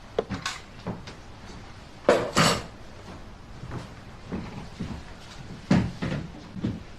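Scattered light knocks and bumps of things being handled, with louder ones about two seconds in and near six seconds.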